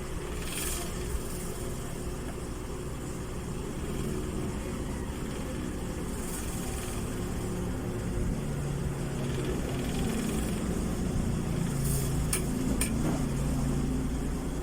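Astron wall fan running with a steady hum, with two sharp clicks close together near the end. The clicking is the fault the owner is showing.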